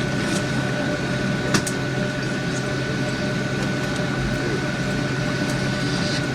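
Steady hum of a parked Boeing 757's cabin air and aircraft systems at the gate, with a thin constant whine, and a single sharp click about a second and a half in.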